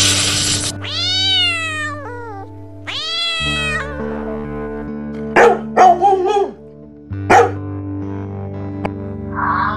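A domestic cat meowing twice, a long drawn-out meow and then a shorter one, each rising then falling in pitch. Then a dog gives a few short, sharp barks, with background music throughout.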